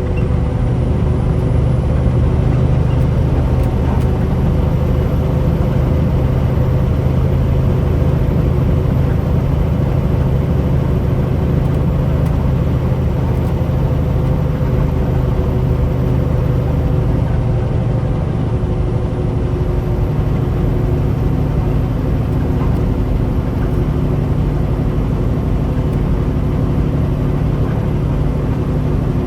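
Heavy truck's diesel engine running steadily under a haze of road noise, a low hum whose pitch shifts a little around the middle and again late on.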